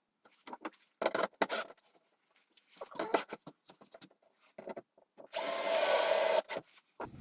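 Wooden workpieces knocked and shifted by hand in a series of short clicks and knocks. Near the end comes one louder rasping, whirring burst lasting about a second.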